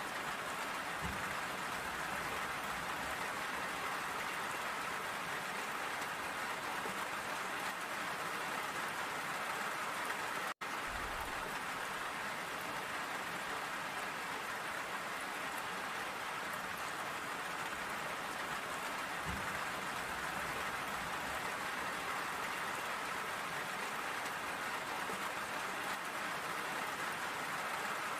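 Steady rain falling, an even hiss with no breaks in intensity. The sound cuts out for a split second about ten seconds in.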